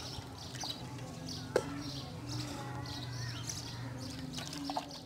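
Small birds chirping and tweeting over a steady low hum, with a single sharp click about one and a half seconds in.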